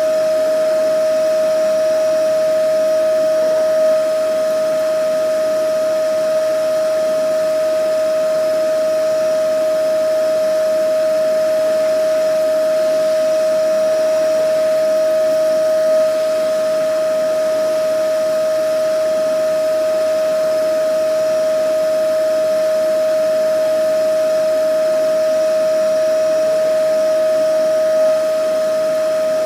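Vacuum cleaner running steadily: a constant high motor whine over an even rush of air, with three faint bumps in level about twelve seconds apart.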